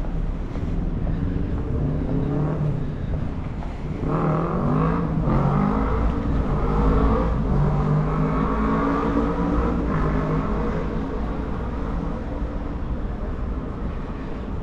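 Road traffic: a motor vehicle engine running and rising in pitch as it speeds up, over a steady low rumble of wind and traffic.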